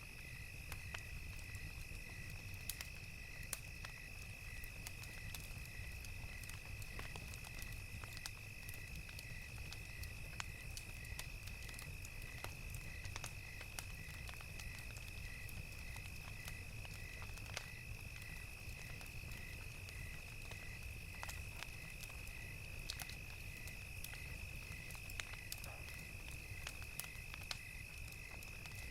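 Crackling fire, with sharp pops scattered irregularly over a low steady rumble, and crickets chirping evenly about twice a second above a continuous high insect trill.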